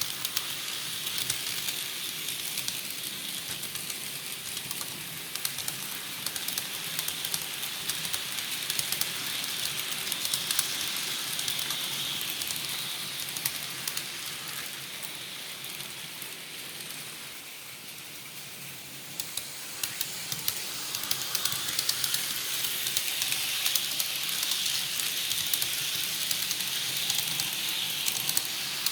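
HO scale model train running on its track: a steady hissing rattle with many fast crackling clicks. It dips a little after halfway, then grows louder again.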